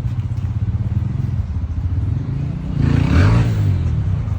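Motorcycle engine running steadily with a low rumble, swelling briefly and louder about three seconds in, then easing back.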